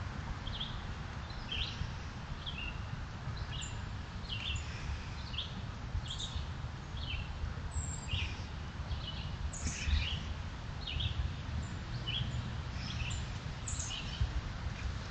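Small birds chirping in woodland, short high calls about twice a second, over a steady low rumble.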